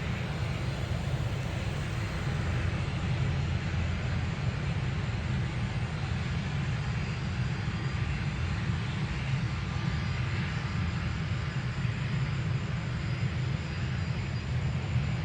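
Steady, low rumble of jet airliner engines, with no rise or fall.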